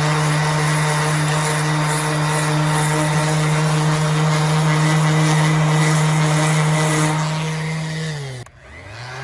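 Bauer 5-inch random orbital palm sander motor running with a steady hum. About eight seconds in it is switched off and winds down to a stop, then it is switched back on and spins back up.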